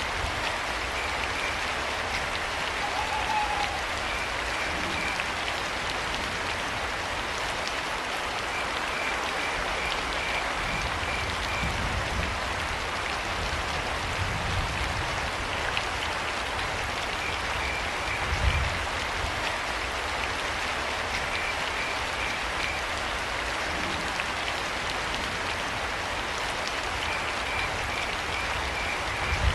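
Steady rain falling with crickets chirping in short trains every few seconds. A few low thumps sound under the rain, the loudest about eighteen seconds in.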